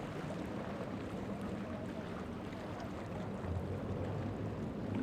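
Boat engine running steadily with a low hum over wind and water noise, the engine note growing stronger about three and a half seconds in.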